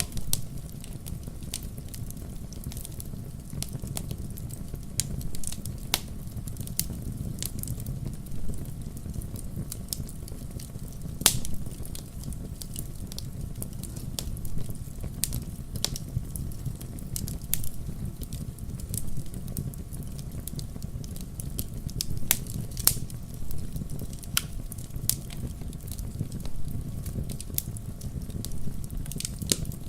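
Firewood burning in a fireplace, crackling: frequent sharp pops and snaps over a steady low rumble of the flames, with one louder pop about eleven seconds in.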